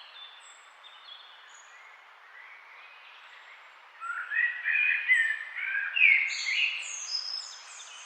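Songbirds chirping, with a louder run of quick warbling song notes starting about halfway through, over a steady background hiss.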